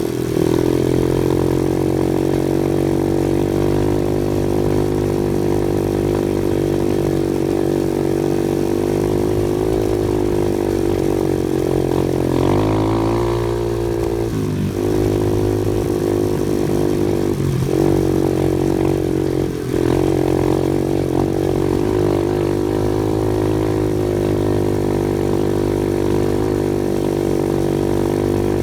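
Off-road vehicle engine running steadily under way, with a few brief dips and shifts in the engine note around the middle.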